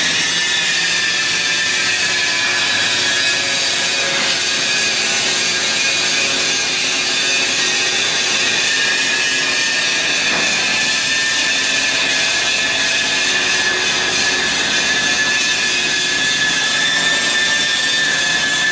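A power tool running steadily with a high whine over a hiss, unbroken throughout.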